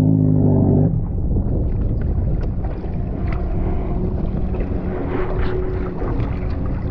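Jet ski engine running at a steady note that cuts off about a second in, followed by wind on the microphone and splashing water.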